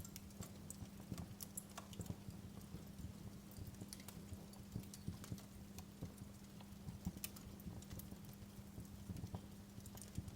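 Wood fire crackling in a fireplace: irregular sharp pops and snaps over a soft hiss, with a faint steady low hum underneath.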